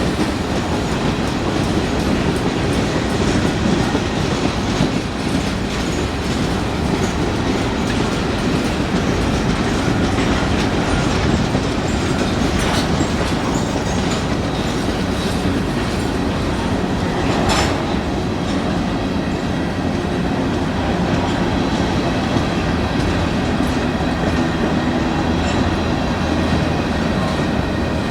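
A long Union Pacific freight train's cars roll past on steel wheels with steady rolling and clicking. Twice there is a brief sharp clank.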